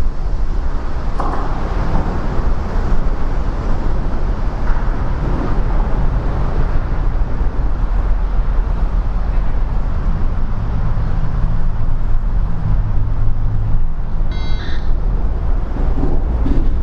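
Steady loud rumble and hiss of heavy rain mixed with highway traffic, with a low engine hum coming up partway through and a brief high squeal near the end.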